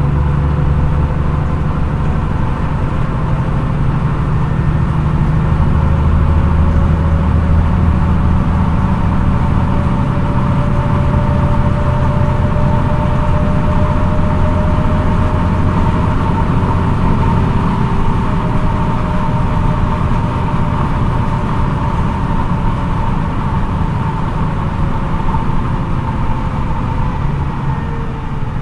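Diesel engine and drivetrain of a MAN NÜ 313 city bus heard from on board while driving, a steady low engine hum under a whine that drifts slowly in pitch, easing down slightly near the end.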